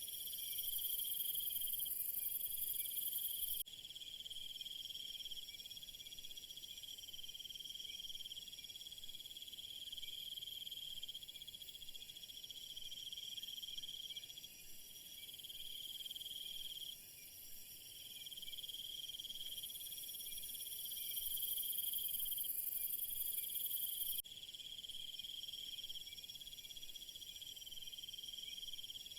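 A steady chorus of crickets and other insects, several trilling voices at different pitches layered together. A louder, very high-pitched trill sounds through the first few seconds and again from about 20 to 24 seconds, stopping abruptly each time.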